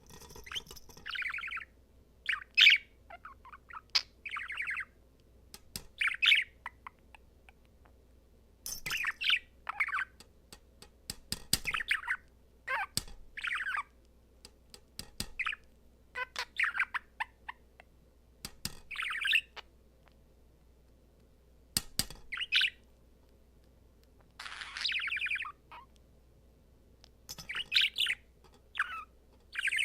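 Budgerigar warbling and chattering: bursts of rapid chirps and warbles lasting about half a second to a second, with short pauses between them.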